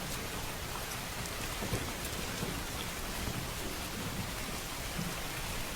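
Steady rain falling, with a low rumble of thunder underneath and scattered small ticks of drops.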